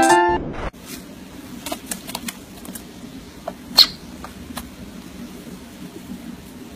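Piano music cuts off within the first second. Then a small green parrot, stroked on the head by a hand, gives one short high squeak about four seconds in, over faint room noise with a few soft clicks.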